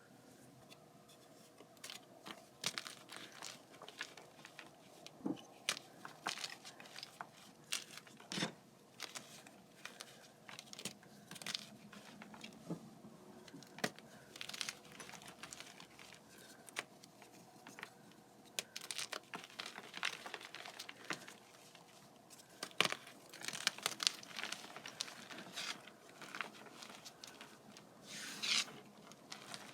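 Blocks of soft, crispy gym chalk being crushed and crumbled by hand: irregular crisp crunches and crackles, some in quick clusters.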